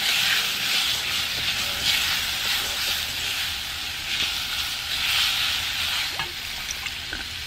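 Rice and chopped vegetables sizzling in hot olive oil in an enameled cast-iron pot while being stirred with a silicone spatula. A steady frying hiss that swells and eases with the stirring, as the rice browns and the freshly added onions, peppers and garlic start to cook.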